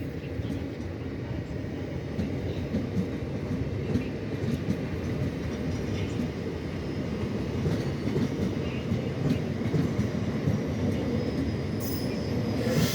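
Push-pull train hauled by an ÖBB class 1144 electric locomotive moving through the station: a steady low rumble with scattered clicks, growing slowly louder, with a hiss rising near the end.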